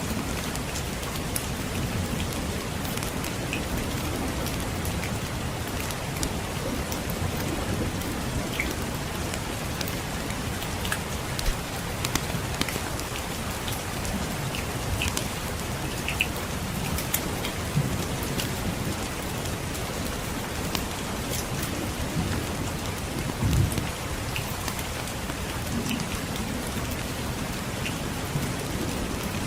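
Steady rain with a low rumble of distant thunder and scattered sharp crackles from a wood fire. There is one louder low thump about two-thirds of the way through.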